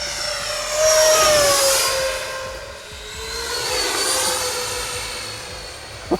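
Twin 80 mm electric ducted fans of a Freewing MiG-29 RC jet whining as it flies past, the whine swelling about a second in and again near four seconds.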